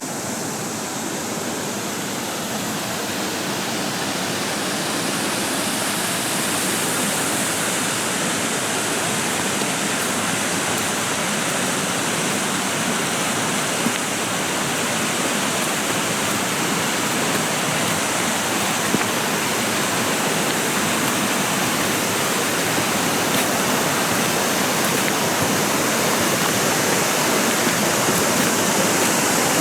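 Mountain stream rushing over rocks: a steady, full-bodied water noise that slowly grows louder.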